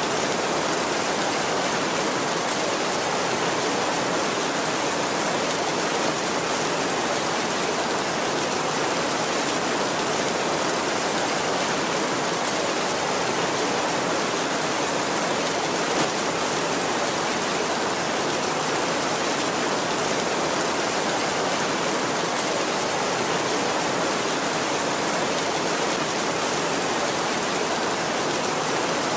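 Heavy rain falling steadily on a tin roof: an even, unbroken hiss with no thunder.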